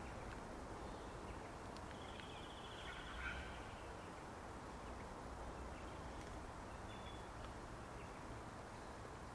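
Quiet outdoor bush ambience: a steady low background noise with a few faint, brief bird calls, including a short trill about two seconds in and another call soon after.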